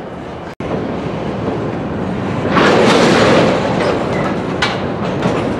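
Freight cars rolling slowly through a rail yard: steady wheel-on-rail rumble and clatter that grows louder for about a second midway, with a sharp knock near the end.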